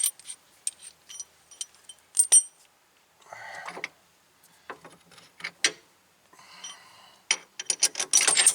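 Small metal parts and tools clinking and rattling as they are handled: sharp ringing ticks with a few short scraping rustles, and a quick run of clinks near the end.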